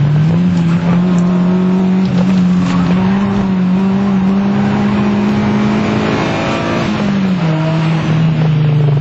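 Fiat Punto Mk1 1.2 16v four-cylinder engine running hard under load, heard from inside the cabin. Its note climbs slowly for several seconds, then drops about seven seconds in.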